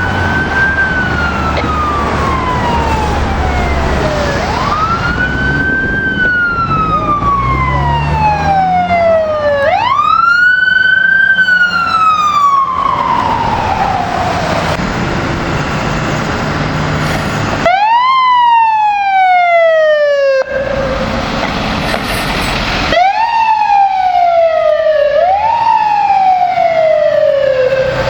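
Fire apparatus mechanical siren winding up quickly and coasting slowly down, about six times over, with the truck's engine rumbling underneath at first.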